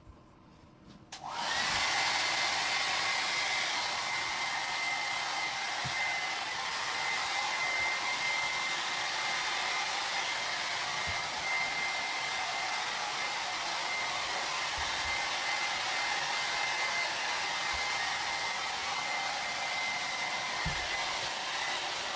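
Handheld hair dryer switched on about a second in, then running steadily with a rush of air and a steady high whine, drying a freshly bathed dog.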